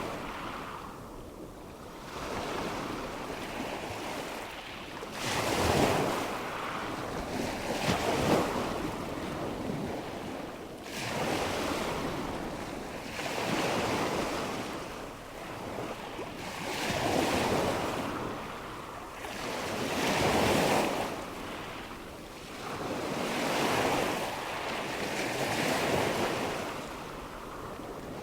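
Nature-sound ambience of water washing in and out, swelling and fading about every three seconds, with wind.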